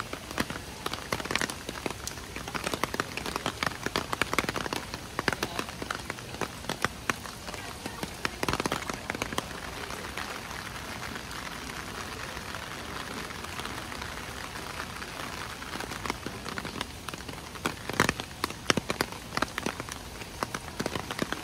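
Steady rain falling, with many sharp, irregular drop hits close by. The drop hits come thickest in the first few seconds and again near the end, and are sparser in the middle.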